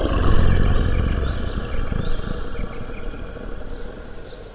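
A big cat's roar, loud at once and fading slowly over about four seconds, with short high chirps above it.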